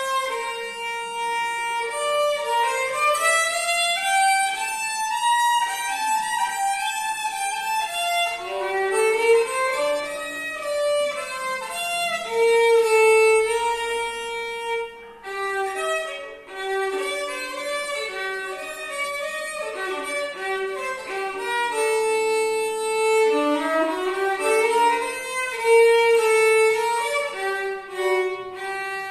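Solo violin playing a tune of held notes and sliding glides, imitating birdsong.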